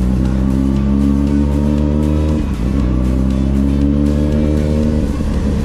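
Carbureted Honda Hornet's inline-four engine accelerating, its pitch climbing steadily, dropping as the rider shifts up about two and a half seconds in, then climbing again, with another shift near the end.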